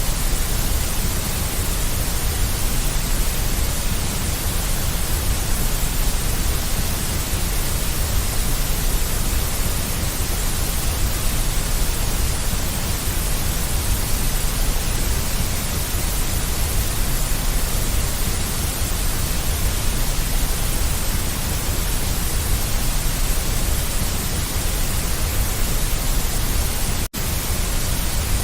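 Deep white noise: a steady, even hiss with a heavy low rumble under it. It drops out for a split second near the end and resumes unchanged.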